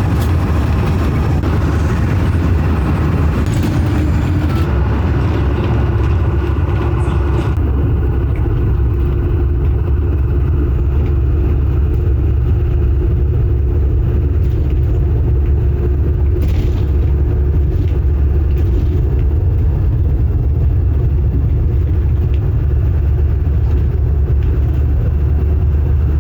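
A road vehicle on the move: a steady, loud low rumble of engine and road noise.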